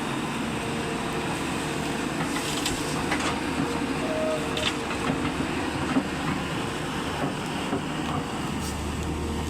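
Heavy truck running, a steady mechanical rumble with scattered rattles and knocks.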